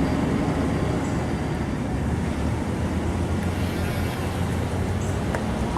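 A motor vehicle's engine running steadily, a constant low hum with road noise.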